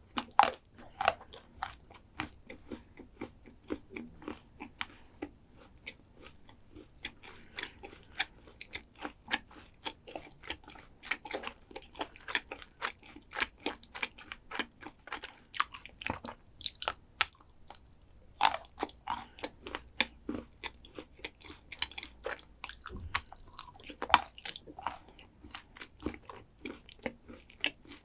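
Close-miked eating: crunchy bites and chewing of chocolate dessert, a dense run of crisp crackles.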